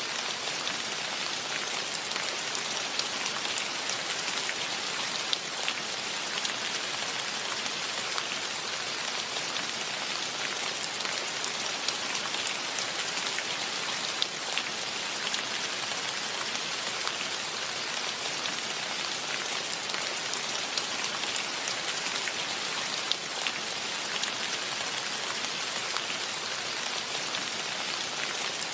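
Steady rain falling in a forest, an even hiss with many separate drops ticking sharply on nearby surfaces.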